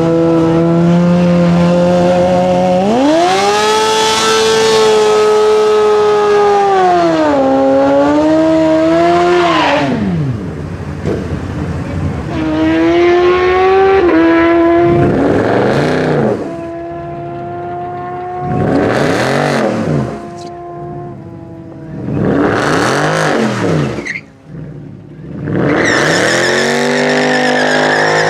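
Turbocharged Mercedes-AMG CLS63's V8 revving high: the pitch jumps about three seconds in, holds, then falls away near ten seconds as the car pulls off. After that, several cars accelerate past one after another, each swelling and fading as it goes by.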